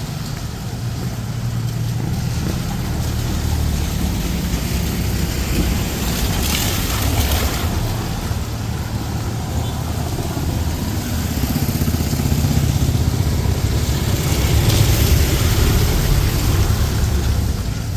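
Street traffic: motor vehicle engines running low and steady as vehicles pass, growing louder toward a peak near the end.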